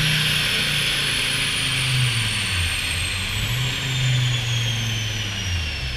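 Dodge Viper's V10 engine running on a chassis dyno, its revs rising and falling. Over it, a thin high whine falls slowly and steadily in pitch.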